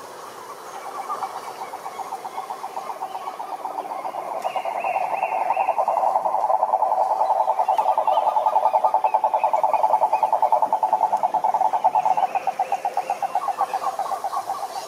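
Frog calling in a long, fast pulsed trill that swells after a few seconds and fades near the end, with fainter higher chirps over it.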